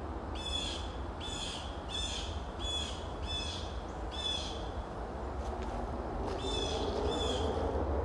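A bird calling, a short note repeated six times at a little more than one a second, then a pause and two more near the end. Behind it is a steady low rumble of distant highway traffic.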